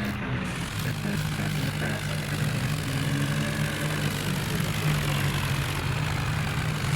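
Heavy diesel engine of a tractor or JCB running steadily, a low drone that firms up about a second in.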